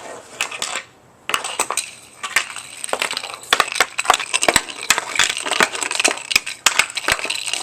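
Hockey stick blade working a Green Biscuit plastic off-ice puck back and forth over gritty ground: a quick, irregular run of clacks and scrapes with crunching grit. It starts about a second in and keeps going.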